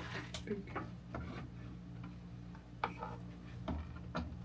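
A few irregular light clicks and knocks of small objects being handled, over a steady low electrical hum.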